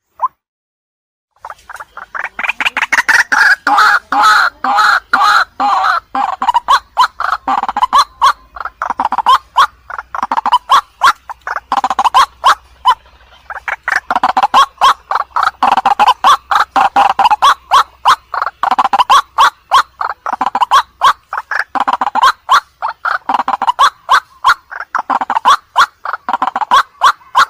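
White-breasted waterhen calling: a fast series of repeated loud calls, several a second, in runs with brief breaks. The calls start after a short silence about a second and a half in.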